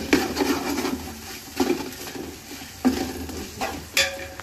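Ginger-garlic paste and onions sizzling in hot oil in a large metal pot while a ladle stirs them. The ladle scrapes and knocks against the pot about every second or so.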